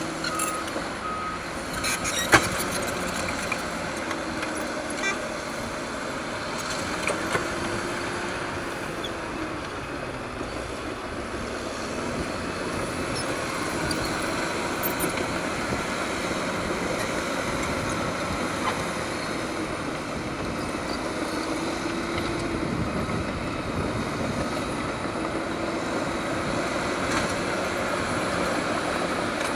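Caterpillar D6R bulldozer's diesel engine working steadily, its pitch rising and falling as the load comes and goes. A reversing alarm beeps a few times near the start, and there is a sharp clank about two seconds in.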